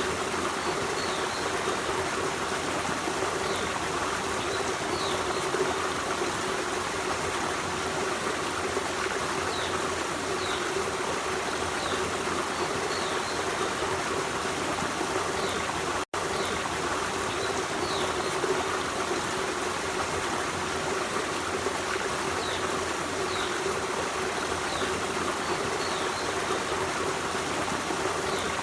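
Forest stream running steadily over rocks, a continuous rushing and trickling of water. Faint short high chirps recur every second or two, and the sound drops out for a split second about sixteen seconds in.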